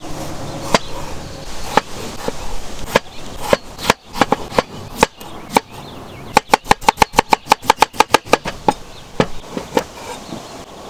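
Knife chopping on a cutting board: scattered single chops, then a quick even run of about seven chops a second in the middle, then a few more single chops.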